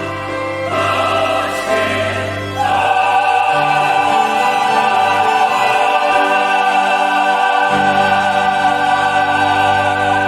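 Church choir singing the close of an anthem with organ and piano accompaniment, settling about three seconds in onto a long held final chord.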